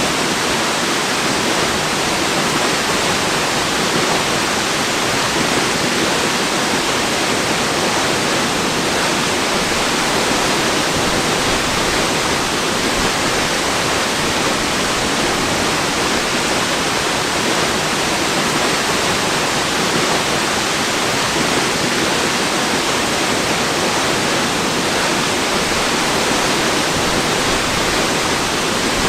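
Waterfall rushing steadily: an even, unbroken hiss of falling water with no change in level or pitch, weighted toward the middle and upper range with little low rumble.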